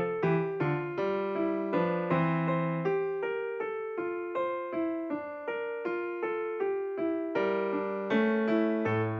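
Background music: a soft electric piano plays a steady run of single notes, about three a second.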